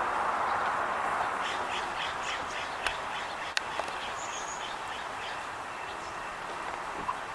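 Small birds calling: a run of short repeated chirps, about three a second, comes twice, over a background rush that fades in the first second. Two sharp clicks fall in the middle.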